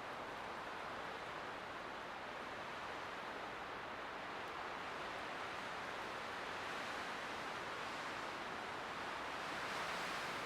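Light wind blowing steadily, a soft even hiss that swells a little near the end.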